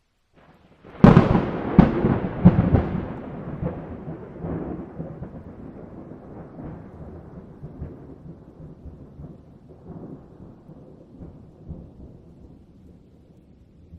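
A thunderclap starting out of silence: a few sharp cracks about a second in, then a long rumble that slowly dies away.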